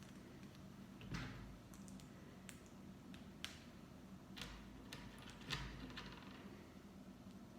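Plastic Lego pieces clicking and rattling faintly as they are handled and pressed together, a few scattered clicks with short rustles between.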